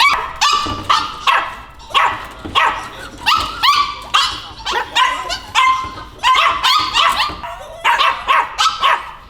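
Puppies yapping over and over, a run of short, high-pitched barks about two a second.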